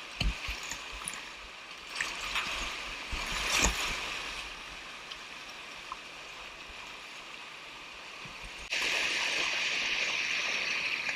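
Rushing whitewater of a river rapid, with a few sharp knocks and splashes in the first four seconds. The rush steps up suddenly and grows louder about three-quarters of the way through.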